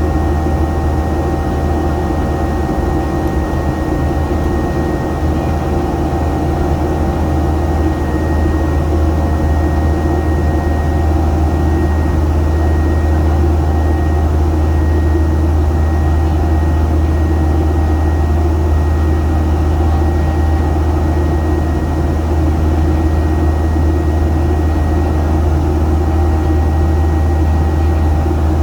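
Steady airliner cabin noise in flight: the engines and airflow make a constant low drone, with faint steady whining tones above it.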